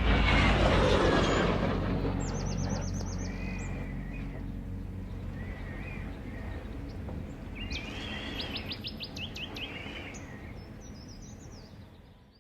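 Passing jet aircraft's engine rumble fading away over several seconds, with small birds chirping and trilling over it.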